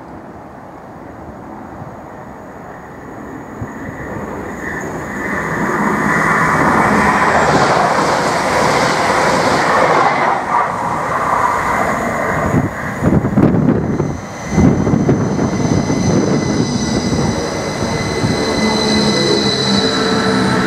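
Class 333 electric multiple units running through the station close by, their wheel and running noise building over the first several seconds to a loud, steady level. In the last few seconds a high whine with several tones sets in over the running noise.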